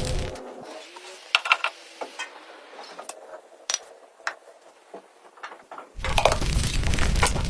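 A quiet stretch with a handful of short, light clicks and taps, scattered a second or so apart. A louder, noisy sound cuts in again near the end.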